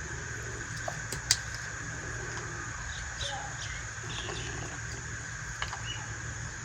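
Light clicks of small toy pieces being handled, with one sharper click about a second in, over a steady low hum, with a few faint bird chirps in the background.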